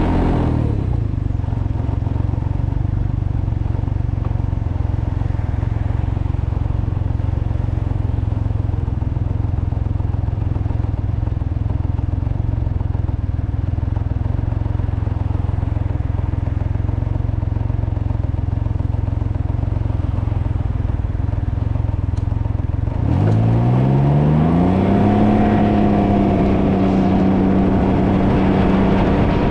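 Can-Am Ryker three-wheeled motorcycle engine under way, with wind noise on the microphone. Its pitch drops at the start and it runs as a steady low rumble. About 23 seconds in, it revs up with a rising pitch as the bike accelerates, then holds at a higher steady note.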